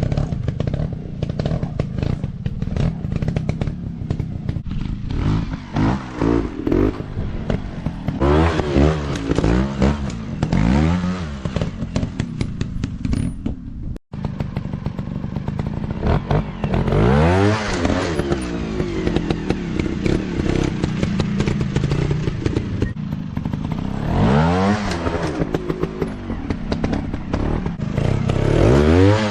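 Dirt bike engines revving up and down again and again, with clattering and knocks throughout. The sound cuts out for an instant about halfway.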